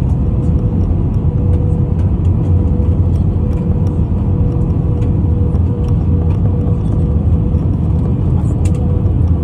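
Steady cabin noise inside a landing jet airliner: a deep rumble of engines and airflow with a constant mid-pitched whine.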